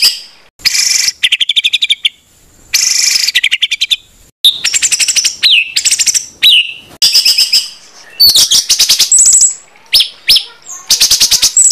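Songbird song from a masteran tutor recording: short bursts of fast, harsh repeated notes (the "tembakan kasar" used to train competition birds), broken by brief gaps and mixed with single down-slurred notes and high thin whistles.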